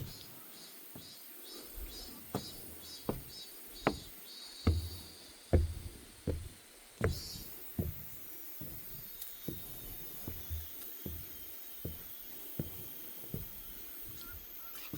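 Footsteps on a wooden deck boardwalk at a steady walking pace, about three steps every two seconds, loudest in the middle.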